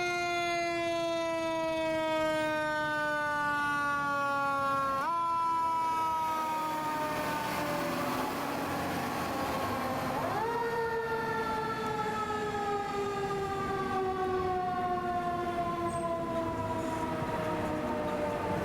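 Fire engine's Federal Q2B mechanical siren, its pitch kicked up three times (at the start, about five seconds in, and about ten seconds in) and each time winding slowly down. A broad rushing noise swells between about six and ten seconds in.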